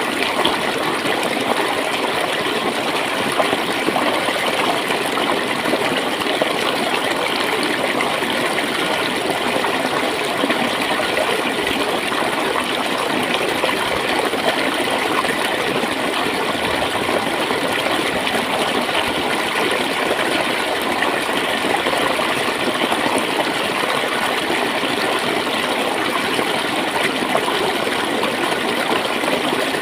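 Shallow stream of clear water flowing and gurgling steadily.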